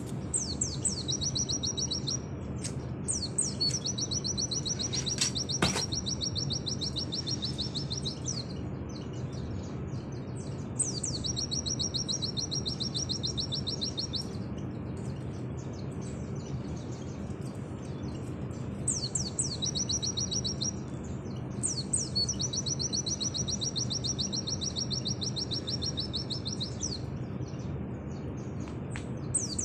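Pleci (white-eye) singing its 'nembak' song: high-pitched phrases of long, very fast trills, each a few seconds long, coming in about six bouts with short pauses between them. A steady low hum runs underneath.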